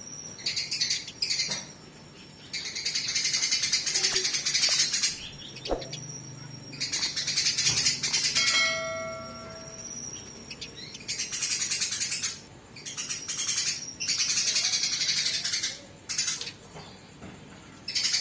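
Fighting house sparrows chattering in dense, rapid bursts of two to four seconds with short pauses between them. About halfway through, a short series of clear, steady whistled notes.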